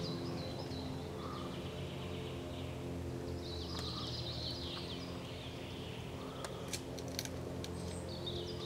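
A songbird sings short phrases of quick falling notes, about 3.5 seconds in and again near the end, over a steady low hum. A few sharp clicks like snapping twigs come around 7 seconds in.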